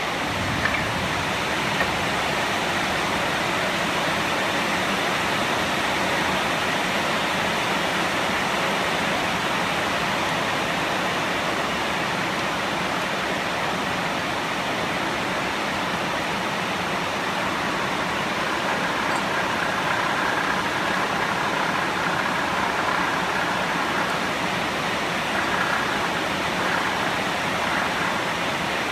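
Wood lathe running: a steady, even hiss, with faint high whining tones in the second half.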